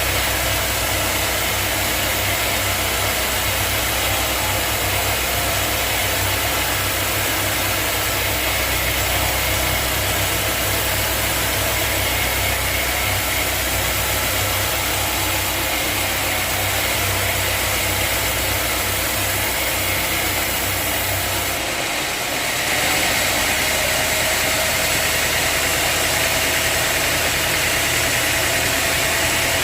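Sawmill machinery running with a loud, steady mechanical hum. About three-quarters of the way through, the low hum drops away and a steady higher tone takes over as the machine's load changes.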